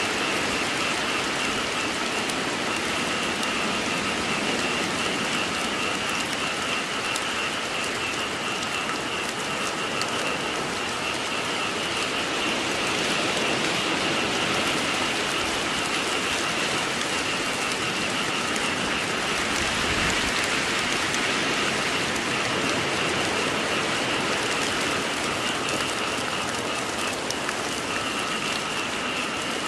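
Steady rain falling, with a frog chorus held underneath as a constant high-pitched band of calling.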